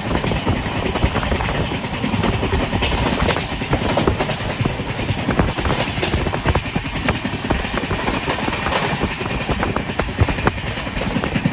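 Passenger express train running along the track: a steady rumble with frequent irregular clicks and rattles from the wheels and carriages.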